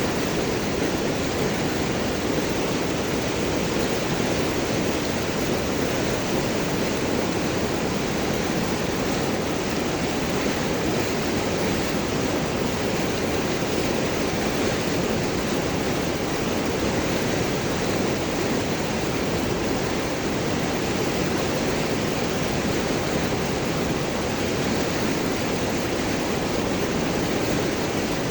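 River water rushing and gurgling over large rocks, a steady full rush of moving water with no let-up.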